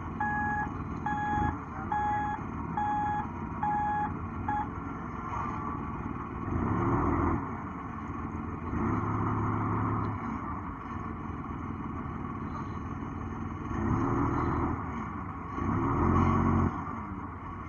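Heavy diesel machine manoeuvring, its travel alarm beeping about once a second and stopping about four and a half seconds in. The engine then revs up four times in short surges as the machine is positioned.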